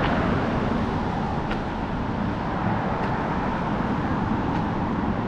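Steady rushing noise of the Steinsdalsfossen waterfall, an even wash of sound with no rise or fall.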